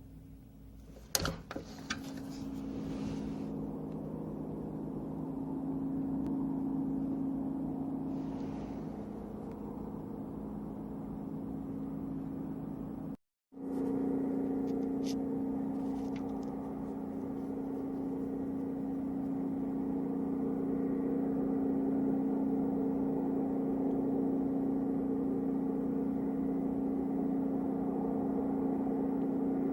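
A steady, horn-like drone in the sky of several held tones, swelling slowly, from a distant source that is not identified. It cuts out completely for a moment about 13 seconds in, and a few sharp clicks come near the start.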